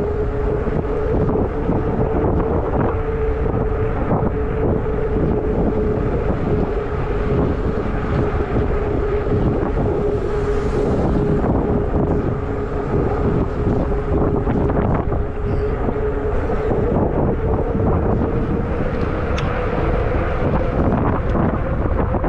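Wind buffeting the microphone of a fat-tire e-bike riding at speed. Under it a steady hum comes from the moving bike and rises slightly in pitch near the end.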